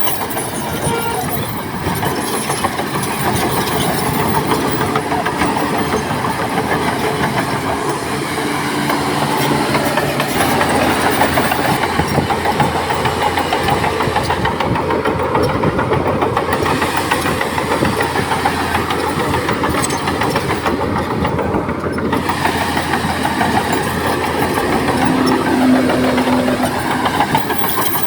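Heavy diesel engines of earthmoving machinery (dump truck and bulldozer) running continuously under work, the engine note shifting up and down several times.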